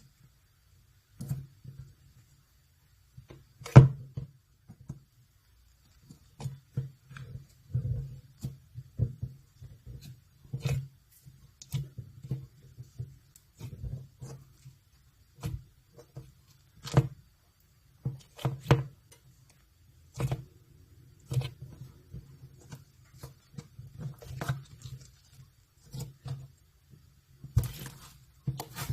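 Unicorn slime being squeezed and poked by hand: irregular sticky clicks and small pops, one to a few each second.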